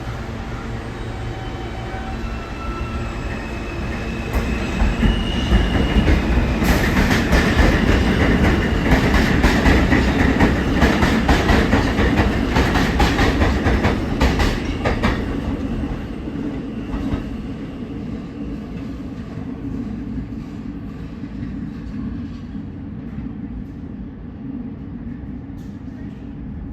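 An R160 subway train running through the station. A whine climbs in steps over the first few seconds, then the wheels clatter loudly over the rail joints. After about fifteen seconds the clatter eases to a steady low rumble.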